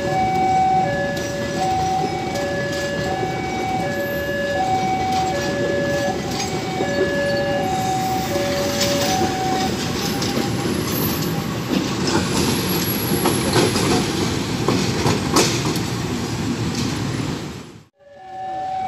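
Level crossing warning alarm sounding its alternating two-tone signal while a train rolls over the crossing; the alarm stops about halfway through. Steel wheels then clatter over the rail joints, with a brief high wheel squeal, and the sound cuts off abruptly near the end.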